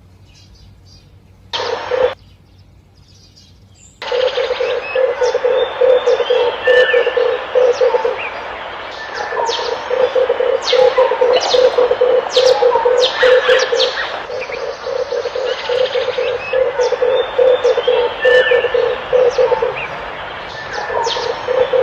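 Red turtle doves cooing in rolling phrases of rapid low pulses, each a few seconds long with short breaks between, while other birds give sharp chirps above them. The cooing starts about four seconds in, after a quieter opening broken by one short burst.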